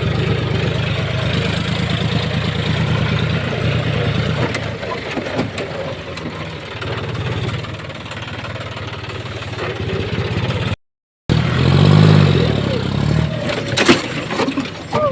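John Deere four-wheel-drive tractor's diesel engine running steadily under load while pulling bamboo. It eases off in the middle, cuts out briefly about eleven seconds in, then revs up and back down, with a sharp click near the end.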